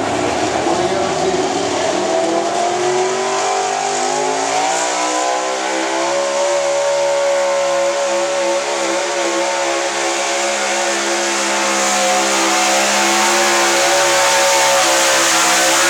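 Hot gas 4x4 pulling truck's gasoline engine under load on a pull. Its revs climb over the first several seconds, then hold steady and high, a little louder near the end.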